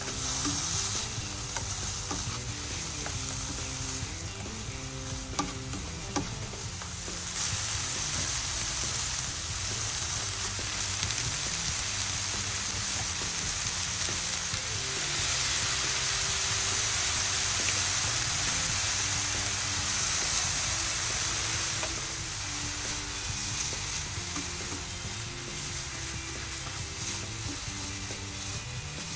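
Food sizzling in a non-stick frying pan while it is stirred and tossed with tongs, first chopped mushrooms and garlic, then spaghetti. The sizzle grows louder about seven seconds in and is loudest through the middle.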